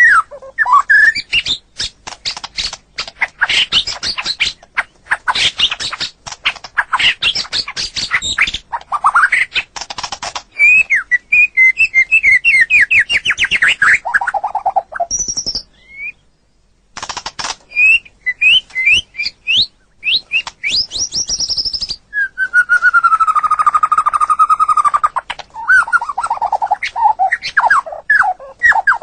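White-rumped shama (murai batu) singing: rapid clicking chatter for the first ten seconds or so, then fast runs of whistled notes. After a brief pause around the middle, a long held whistle is followed by a string of falling notes near the end.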